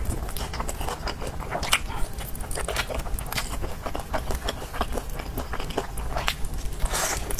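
Close-miked biting and chewing of a sesame-coated fried chicken drumstick: a run of many irregular sharp crunches.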